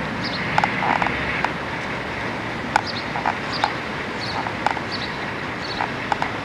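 Small birds chirping in short, repeated calls at irregular intervals over a steady hum of street traffic.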